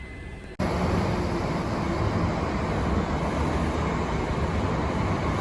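A train running, a loud steady rumble and rush of noise that starts abruptly about half a second in, after a quieter stretch.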